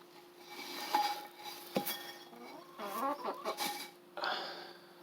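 A few sharp clinks and clicks from the dish of treats as the hens get at it, with hens clucking softly about three seconds in.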